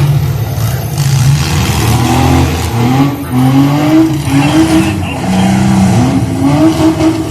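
Demolition derby car engines revving hard, rising and falling in pitch over and over, over the steady rumble of other engines running.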